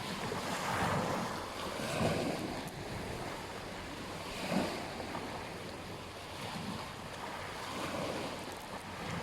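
Ocean waves washing onto a beach, soft swells of surf rising and falling every few seconds over a steady hiss, with some wind on the microphone.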